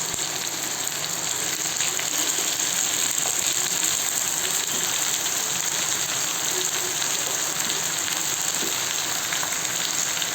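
Chicken and potato pieces frying with a steady sizzle.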